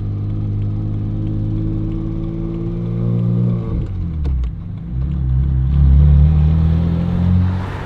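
Single-turbo BMW 335i's N54 3.0-litre straight-six running under light throttle, heard from inside the cabin. About four seconds in the revs fall, with a few light clicks, as it is shifted up a gear by holding the broken shifter in place. It then carries on at a lower, louder engine note.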